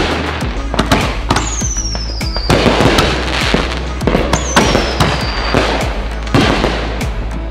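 Consumer fireworks going off in rapid bangs and crackles, with two whistles falling in pitch, one about a second and a half in and another about four and a half seconds in.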